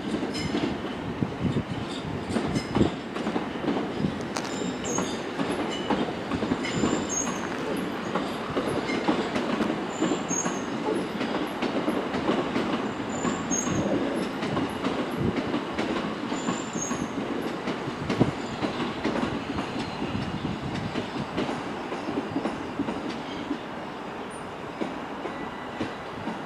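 Class 375 Electrostar electric multiple unit arriving at the platform: a steady rumble with clicks of the wheels and short high squeals every few seconds, easing off near the end.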